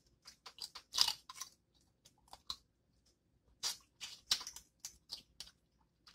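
Close-up eating sounds of boiled seafood being bitten and chewed: clusters of short, crisp crunches and wet mouth clicks. The loudest come about a second in and again around four seconds.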